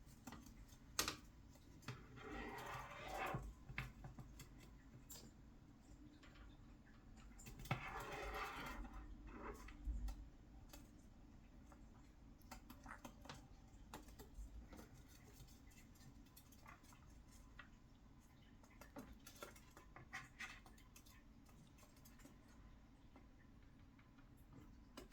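A conure's claws clicking and scraping on a hard surface as it skates about. Scattered light taps run throughout, with two longer scraping slides, about two seconds in and about eight seconds in.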